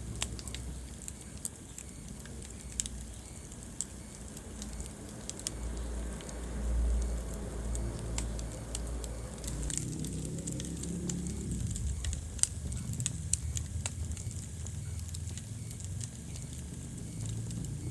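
Wood fire crackling in a fireplace: irregular sharp pops and snaps over the low rumble of the burning logs.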